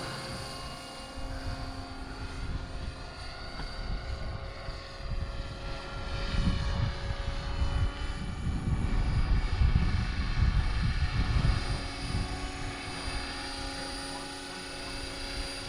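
Electric scale RC helicopter in flight: a steady whine of motor and rotors with several held tones. A low rumble swells in the middle and fades again.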